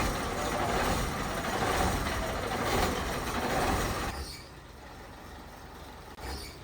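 A heavy truck running, a steady noise that drops away sharply about four seconds in, with a brief short sound near the end.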